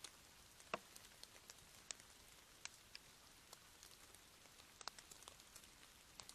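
Light rain: scattered raindrops ticking irregularly, a few each second, over a faint steady hiss.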